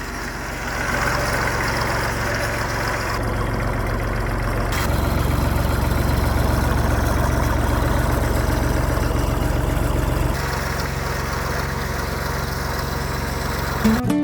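Leyland tractor's diesel engine idling steadily, its low hum shifting in tone about three and five seconds in and again about ten seconds in.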